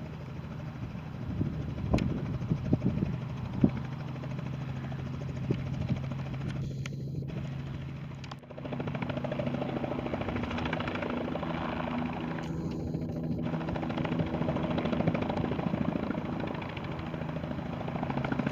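Robinson R44 helicopter running, its piston engine and rotor making a steady drone with a rapid pulse. A few sharp clicks sound in the first few seconds, and the sound briefly dips about eight seconds in.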